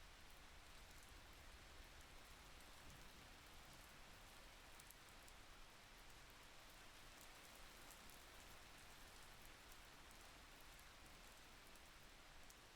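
Faint, steady rain with light drop ticks.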